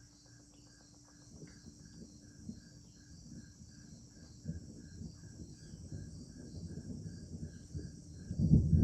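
Crickets chirping in a steady pulse, about two to three chirps a second, over a continuous high insect trill. A low rumbling noise builds underneath and grows loud near the end.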